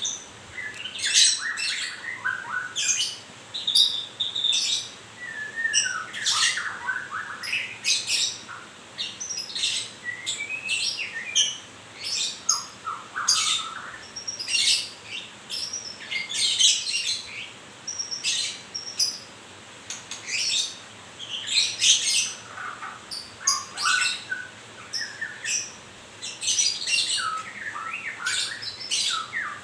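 White-rumped shama chirping and calling in quick short phrases, the notes coming one after another almost without a break, some of them sliding down in pitch.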